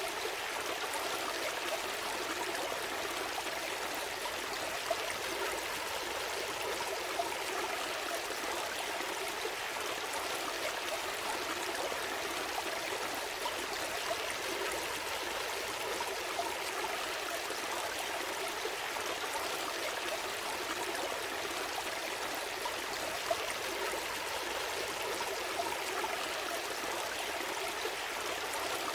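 Stream flowing steadily over stones, a continuous trickling and gurgling rush of water.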